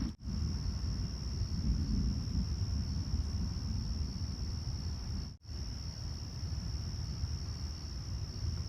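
Steady high-pitched chorus of crickets over a louder low noise. The sound drops out for an instant twice, near the start and about halfway through.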